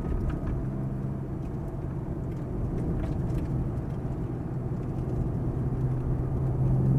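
Ferrari F430's V8 running at moderate revs, heard inside the cabin, with road rumble under it as the car takes a corner; the engine grows a little louder near the end.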